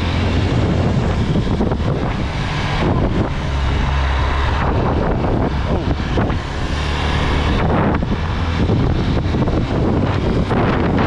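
Chinese 250 cc street-legal dirt bike's engine running at speed, with heavy wind buffeting on the microphone.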